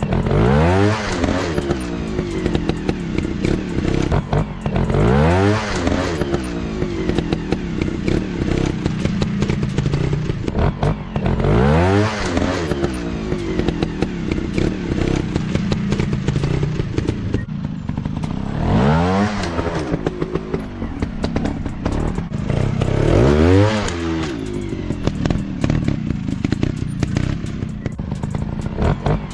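Off-road dirt motorcycle engines running and revving, the pitch rising and falling in repeated swells about every five to seven seconds, with scattered clattering clicks.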